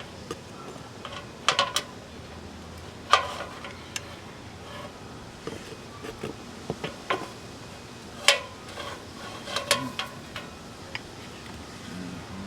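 Metal ladder clanking and knocking as it is handled and climbed: irregular clanks, some ringing briefly, the loudest about three and eight seconds in.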